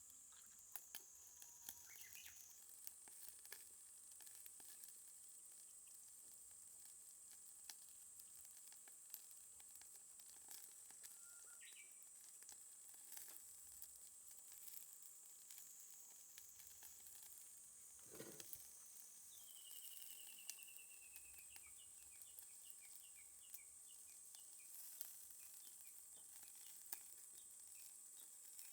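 Faint crackle and sizzle of a fire in a small box-shaped fire pit, with scattered small pops. A bird calls with a short descending trill about two-thirds of the way through.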